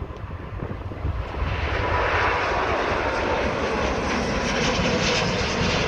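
Airbus A330-300 airliner's jet engines at takeoff thrust as it rotates and lifts off. The noise grows louder about a second and a half in and then holds steady.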